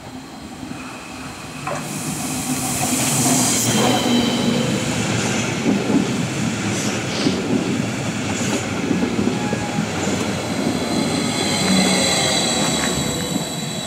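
A train passing on the tracks, its rumble building over the first few seconds, with wheels clicking over rail joints and thin high wheel squeal.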